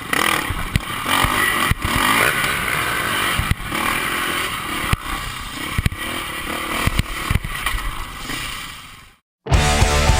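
Dirt bike engine running on a rough trail, heard through a ride-along action camera, with frequent rattles and knocks from the bumps. It fades out about nine seconds in, and heavy-metal music starts half a second later.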